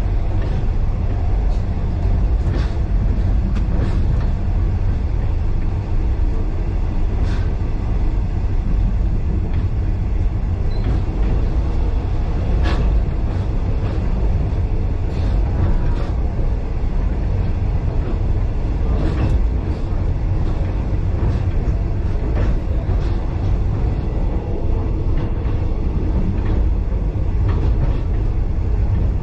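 Heritage passenger carriage running along the track, heard from inside: a steady low rumble of wheels on rail with irregular sharp clicks and knocks from the running gear and rail joints.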